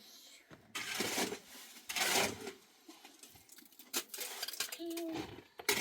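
A metal tool scraping and clattering in a few strokes: two loud scrapes about a second apart early on, then lighter ones, with a brief short pitched call near the end.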